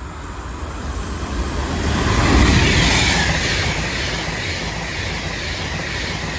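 Avanti West Coast Class 390 Pendolino electric express train going through the station at speed. Its rushing noise builds over the first two seconds or so, peaks, then holds steady.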